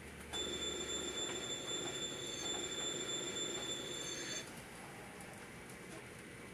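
Train sound: a steady high-pitched squeal over a rumble, starting abruptly and cutting off about four seconds later.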